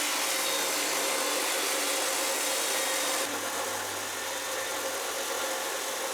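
Electric power tool cutting a steel pin down to length, a steady hissing cut. About three seconds in the sound changes, the hiss dropping and a lower hum coming up as the load on the tool shifts.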